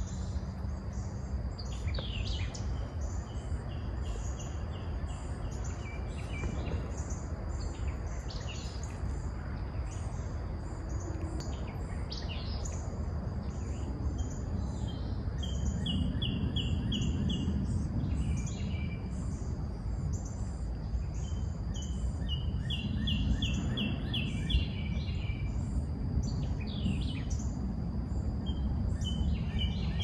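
Songbirds calling: one bird repeats a quick run of short, evenly spaced notes several times, among scattered sharp chirps. Underneath is a steady low rumble and a thin, steady high whine.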